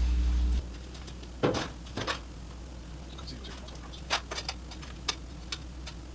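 A steady low hum cuts off abruptly just after the start. Then come scattered sharp clicks and light knocks at irregular intervals, the loudest two in the first couple of seconds.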